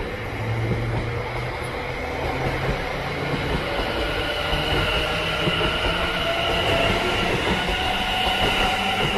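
Greater Anglia electric multiple unit running past the platform: continuous wheel-on-rail noise, with a high whine that grows stronger about halfway through and rises slightly in pitch.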